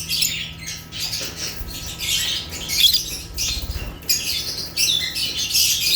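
African lovebirds (Agapornis) chirping and squawking: shrill high-pitched calls in quick clustered bursts, several birds calling over one another.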